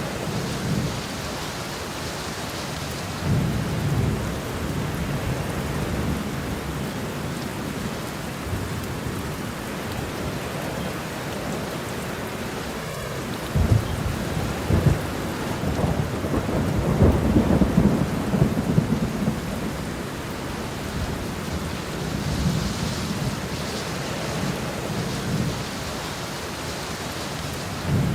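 Steady rain falling, with rolls of thunder rumbling over it. The longest and loudest roll, with a few sharp cracks, comes about halfway through; smaller rumbles come early and near the end.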